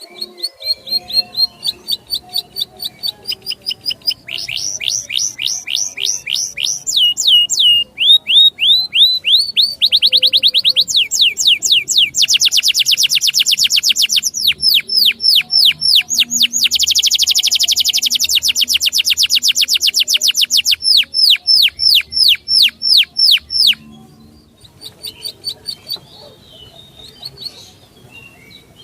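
A songbird singing a long run of sharp repeated notes, each sliding down in pitch, that speeds up into very fast rattling trills in the middle, then eases back into separate notes and fades near the end.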